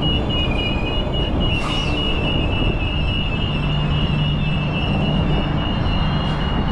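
Transperth electric suburban train running on the rails: a loud, steady rumble with a high, pulsing wheel squeal throughout and a low hum that strengthens midway.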